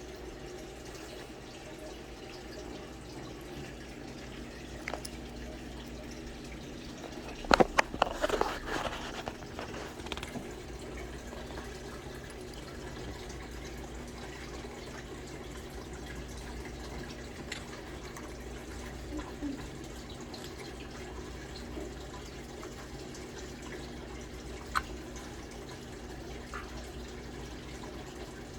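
Steady background hum with a cluster of sharp clicks and rattles about seven to nine seconds in, and a few single clicks later: hands working on a rack server's chassis and parts.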